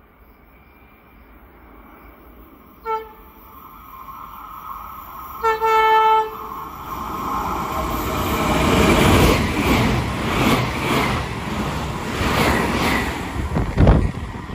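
ETR 621 electric train sounding its horn as it approaches: a short toot about three seconds in, then a longer double blast about two and a half seconds later. The rumble and rail noise of the train then grow steadily louder as it draws near.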